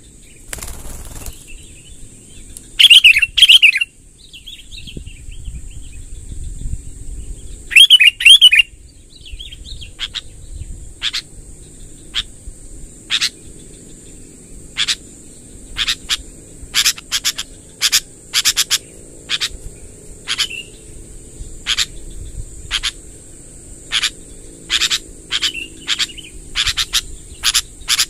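Sooty-headed bulbul calling: two loud warbling song phrases, then a long run of short sharp call notes that come faster toward the end. A steady high-pitched hum runs underneath.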